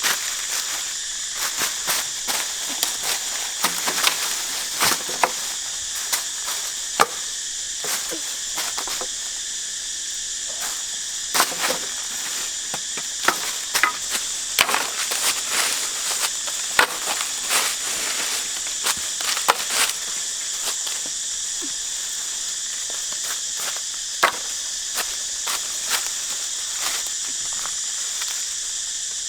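Steady high-pitched chorus of forest insects, with many short sharp clicks and knocks scattered through it.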